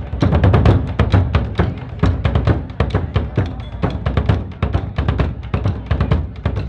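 Drums played in a fast, dense rhythm, with heavy bass drum strikes.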